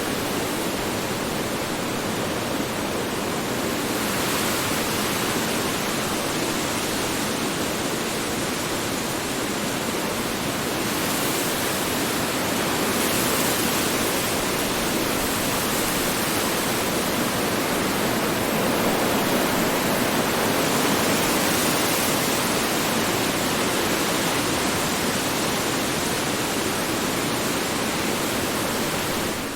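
Strong wind blowing steadily, a dense rushing noise that swells and eases slowly.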